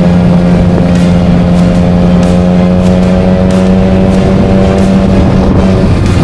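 Motorcycle engine running at a steady speed with wind rushing past, its hum holding one pitch and shifting just before the end.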